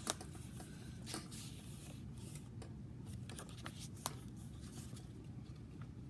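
Paper pages and card inserts of a handmade junk journal being handled and turned, soft rustling with a few light clicks and taps.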